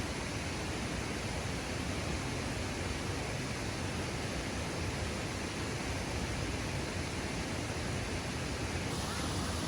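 Waterfall rushing: a steady, even roar of falling water with no separate events.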